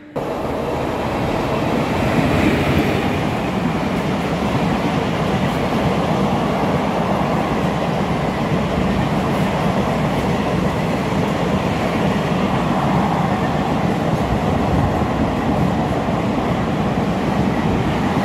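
Passenger express train running through a station at speed: a steady, loud rumble and rush of its coaches' wheels on the rails. It comes in sharply at the start and holds at the same level throughout.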